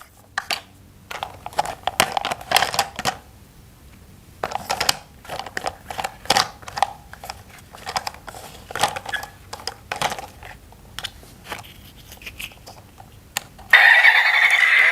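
Plastic toy train parts being handled and fitted together: a run of irregular light clicks and knocks, with some crinkling. Background music comes in near the end.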